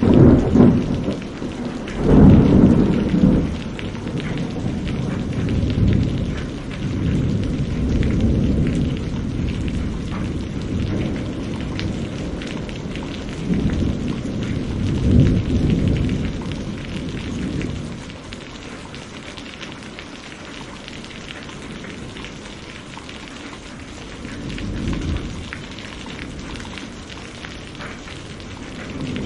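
Thunderstorm: steady rain hiss with rolling thunder, the heaviest rumbles about 2 seconds and about 15 seconds in, and quieter from about 18 seconds.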